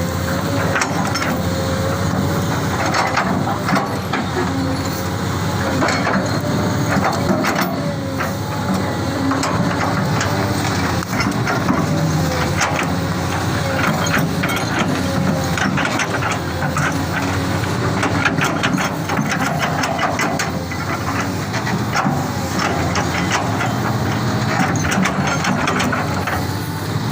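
XCMG excavator's diesel engine running steadily, with many sharp clicks and knocks over it.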